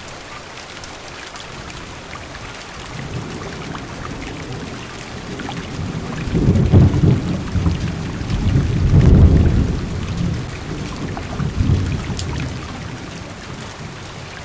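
Heavy rain falling on a car's window and roof, with a long roll of thunder that builds a few seconds in, swells several times through the middle and dies away near the end.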